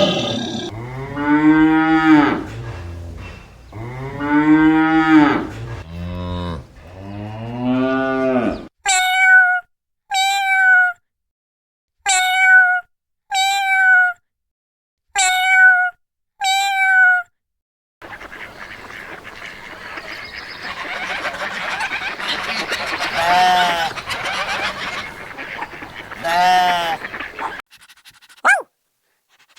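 A cow mooing, about four long calls in a row. These are followed by six short, evenly spaced, higher-pitched honking calls. Last come two more drawn-out calls over a rough, noisy background.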